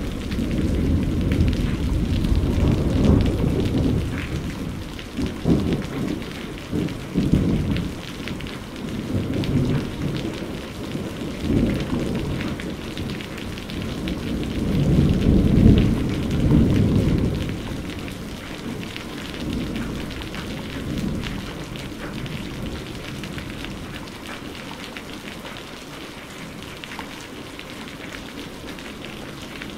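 Steady rain with rolling thunder: long low rumbles swell and fade several times, loudest a little past the middle, then die away, leaving the rain alone near the end.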